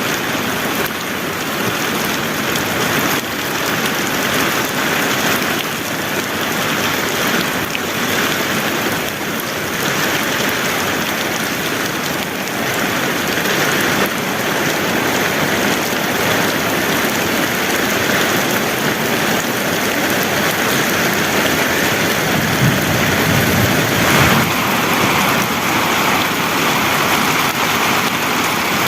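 Heavy rain falling steadily in a dense, even downpour. About three-quarters of the way through there is a brief low rumble.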